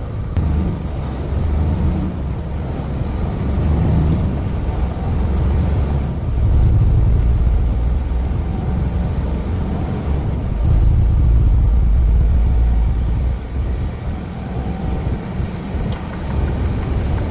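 Semi truck's diesel engine running as the truck drives. It is a low rumble that swells louder about six seconds in and again about ten seconds in.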